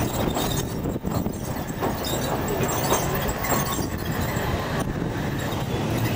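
Ffestiniog Railway narrow-gauge train running on the rails: a steady rumble with scattered irregular clicks.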